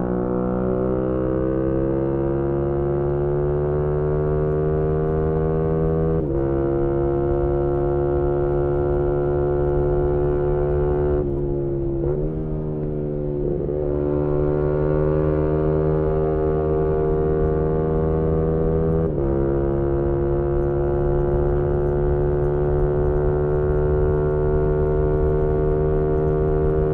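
2018 Yamaha MT-125's single-cylinder engine through a GPR aftermarket exhaust, heard from on board while riding: the revs climb steadily under throttle, with sharp drops at upshifts about 6 and 19 seconds in. Around the middle it eases off and the revs fall and waver before pulling up again.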